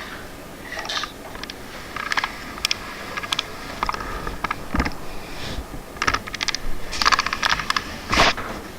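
Irregular bursts of quick, sharp clicks and clatters, with a heavier thump about five seconds in and a louder one near the end.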